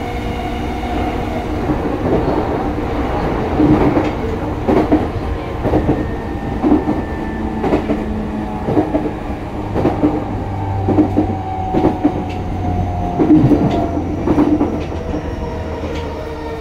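Electric commuter train heard from inside a passenger car: a steady rumble of wheels and running gear, with a clatter of wheels over rail joints about once a second through the middle. A motor whine falls slowly in pitch as the train slows.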